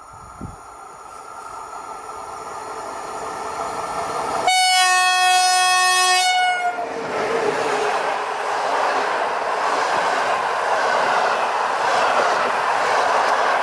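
EU07 electric locomotive hauling a passenger train: its rumble grows as it approaches, and it sounds its horn, a steady chord that starts abruptly about four and a half seconds in and lasts about two seconds. Then the loud rush of wheel and rail noise as the coaches pass close by.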